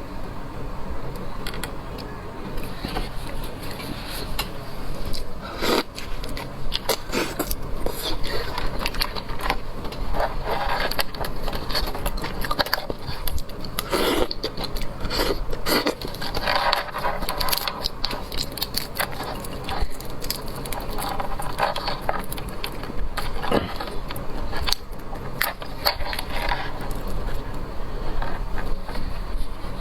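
Close-up eating of seafood: chewing and crunching, with many small clicks and scrapes of shells being handled.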